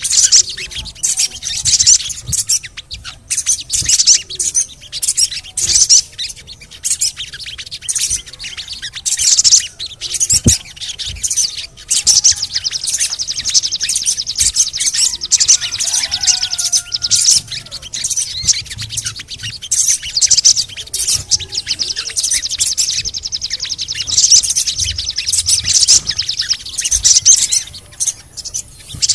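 Sogon birds (little spiderhunters) calling in a fast, continuous run of sharp high-pitched chirps and chattering notes: a lure recording meant to set other sogon singing.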